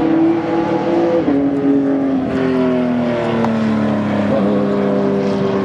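Racing GT car engine running hard, its pitch sliding steadily downward over several seconds, with a small step about a second in.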